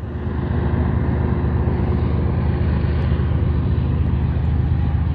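Diesel locomotives of an eastbound stack intermodal freight train running close by: a steady, loud low engine drone.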